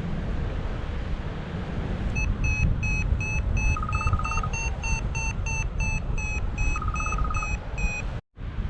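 Wind buffeting the microphone in flight, with a paragliding variometer beeping about three to four times a second from about two seconds in, twice joined by a short rapid trill at a lower pitch. The sound drops out briefly near the end.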